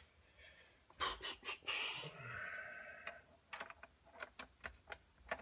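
Small metal engine parts being handled on a workbench: a few sharp clicks and clinks about a second in, a short scraping rub, then a run of light irregular ticks.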